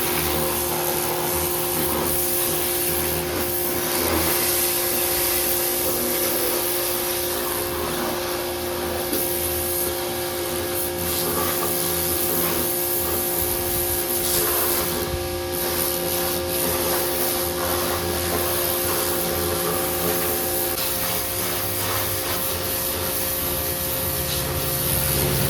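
Pressure washer running and spraying: a steady hiss from the water jet over the even hum of the washer's motor and pump, blasting grease off a truck's undercarriage.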